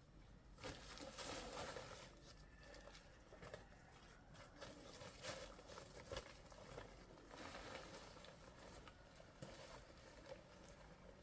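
Near silence with faint scattered rustling and a few light taps.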